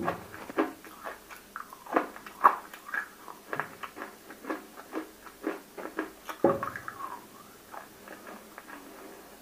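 Close-miked chewing of water-soaked roasted edible clay (nakumatt): a run of short, crisp crunches about two a second, with louder bites about two seconds in and again past six seconds, trailing off near the end.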